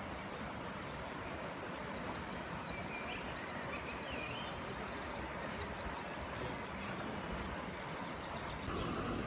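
Steady outdoor background noise, with a small songbird giving short high chirps and trills from about a second and a half to six seconds in.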